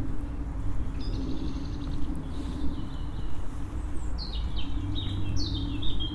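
Small songbirds singing: a short high phrase about a second in, then a run of quick descending notes near the end, over a steady low background hum.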